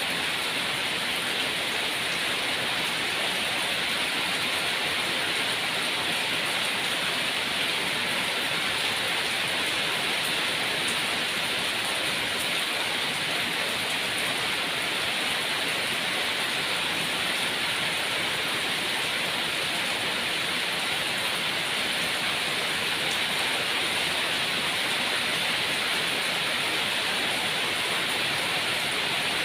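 Steady rain falling, an even hiss of many drops with no breaks or separate events.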